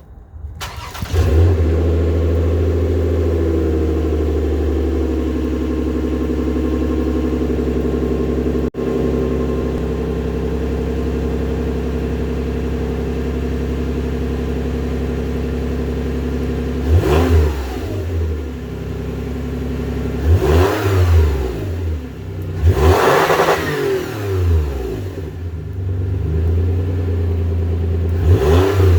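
2015 Lexus RX350's 3.5-litre V6 heard through a resonator-delete dual exhaust on a cold start. The engine catches about a second in and settles into a steady idle. From about halfway, several quick throttle blips rise and fall in pitch.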